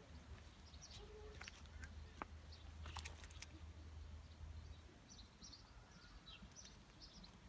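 Faint outdoor ambience: scattered short bird chirps over a low steady rumble that fades out about five seconds in, with a few sharp clicks.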